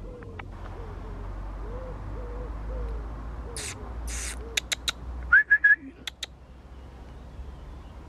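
A bird cooing softly in a repeated rhythm of low, arching notes. A little past the middle come a few sharp clicks and three short high squeaks, which are the loudest sounds.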